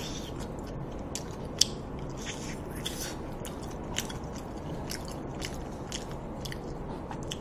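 Close-miked biting and chewing of braised pig's trotter (jokbal) held by the bone: irregular wet mouth clicks and smacks, with one sharper click about a second and a half in.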